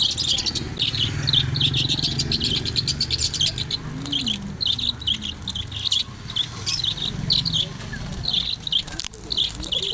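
A flock of caged lovebirds chattering: rapid, high-pitched chirps overlapping without a break, over a low background rumble, with one sharp click near the end.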